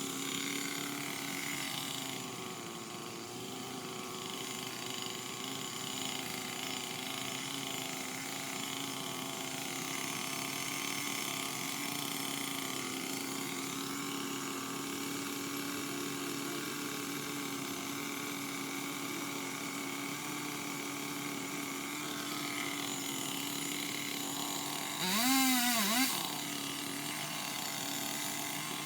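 Steady motor drone, then about 25 seconds in a powered limb cutter (pole saw) speeds up and drops back again, briefly and louder.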